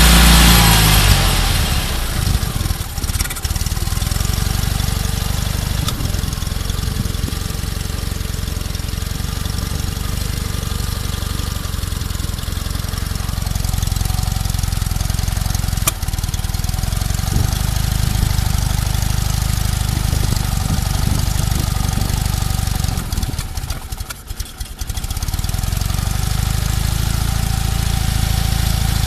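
Fiat 126p's small air-cooled two-cylinder engine running after five years unused. The revs fall back from a rev at the start, then it idles steadily, briefly dropping away about three-quarters of the way through before picking up again.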